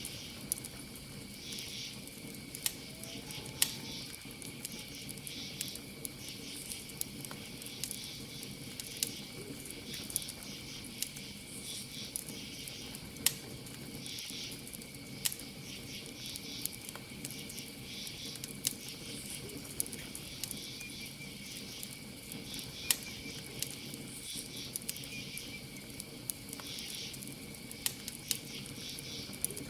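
Campfire crackling with irregular sharp pops, over a steady high cricket trill and insects chirping in pulses every second or two.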